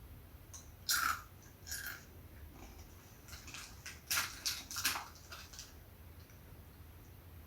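Crunchy snack being bitten and chewed close to the microphone: irregular crisp crunches, a loud one about a second in and a close cluster around four to five seconds in.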